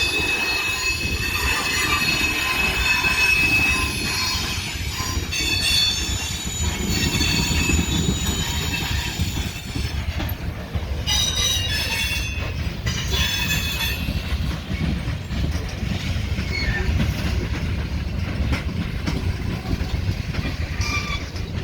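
Freight cars of a mixed freight train rolling slowly through a curve, with a steady low rumble. Their steel wheels squeal against the rail in high, wavering tones that come and go, strongest in the first few seconds and again about ten to fourteen seconds in.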